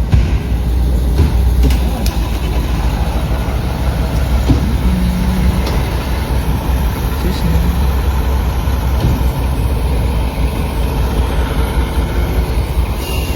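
Heavy fire-apparatus engine and road noise: a loud, steady deep rumble with a noisy wash over it.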